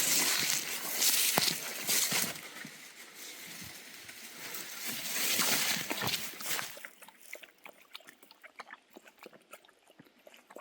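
Brush and dry leaves rustling loudly for about seven seconds as someone pushes through the woods. It then drops to quieter, scattered small ticks and crackles.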